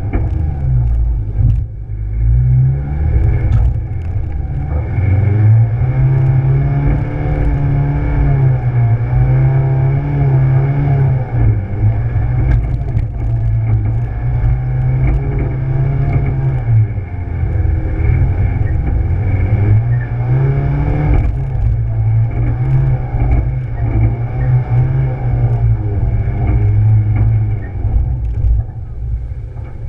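Rally car's engine pulling hard over a rough dirt track, its revs rising and falling again and again, heard through a camera mounted outside on the bonnet with a heavy low rumble. Short knocks now and then from the car jolting over the ground.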